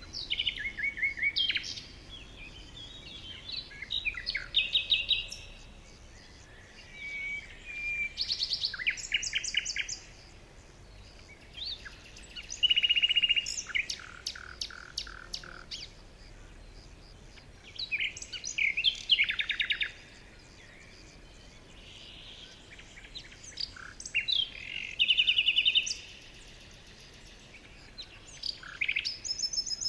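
Birds singing: bursts of varied chirps and fast trills about every three to four seconds, each phrase lasting a second or two, over a faint steady background hiss.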